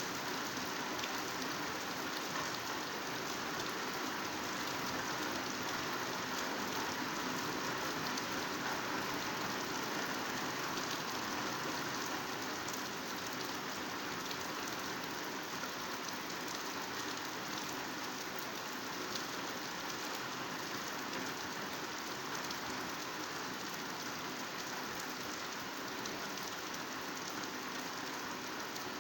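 Heavy rain falling steadily on foliage: a dense, even hiss of rain with faint individual drop ticks.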